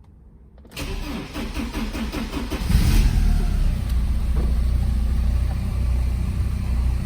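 1989 Porsche 944 S2's four-cylinder engine cold-starting: the starter cranks for about two seconds, the engine catches with a brief rev about three seconds in, then settles into a steady idle.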